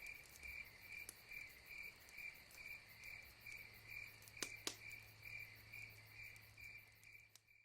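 Faint cricket chirping in a steady rhythm, a little over two chirps a second, over a low steady hum, with two quick clicks about halfway through.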